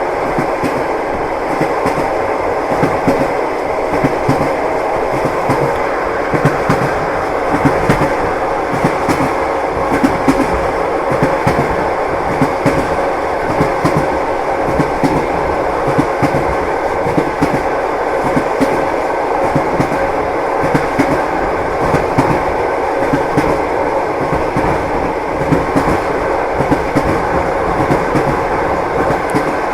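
Train running along the track: a steady rumble of the rolling train with frequent knocks of the wheels over the rails.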